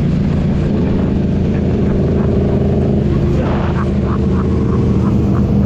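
Motorcycle engine running at a steady speed.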